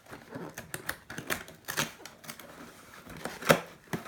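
Small plastic toy packaging rustling and clicking as it is handled and opened, with irregular sharp clicks and one louder snap about three and a half seconds in.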